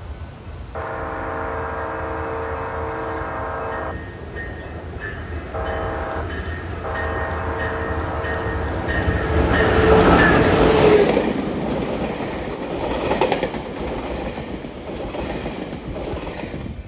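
Passenger train sounding its multi-note air horn, a long blast and then a shorter one, as it approaches and passes at speed; the rush of wheels on the rail swells to a peak about two-thirds of the way through and then fades.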